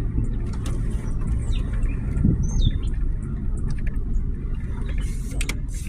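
Low, steady rumble of a car driving slowly, heard from inside the vehicle, with scattered clicks and creaks near the end. A few bird chirps come in from outside in the first half.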